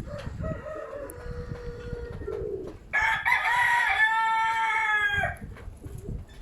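A rooster crowing: one loud, long crow about three seconds in, lasting just over two seconds, after a fainter drawn-out call. Wind rumbles on the microphone underneath.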